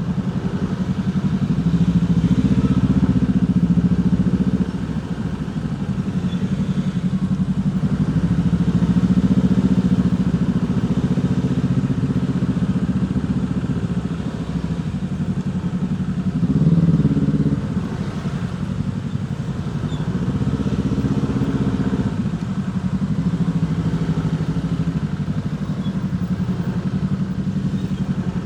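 Motorcycle engine running at low speed, its pitch rising and falling as the throttle is opened and closed, with one short louder rev about two-thirds of the way through.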